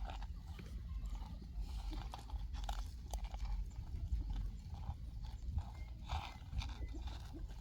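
Irregular light crackles and knocks of dry ground litter being moved by hand, over a steady low rumble.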